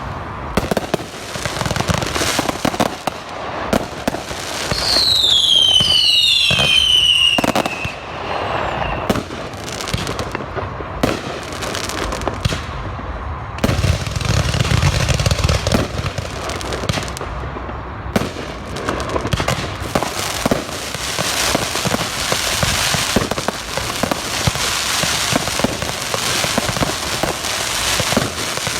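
Fireworks display going off continuously: rapid reports and bursts with crackle throughout. About five seconds in, several whistles sound together and fall in pitch for a couple of seconds, as from whistling mines. Dense crackling thickens through the last part.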